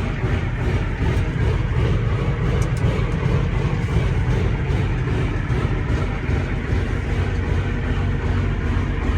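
John Deere 9200 articulated four-wheel-drive tractor's six-cylinder diesel engine running steadily, a deep, even drone.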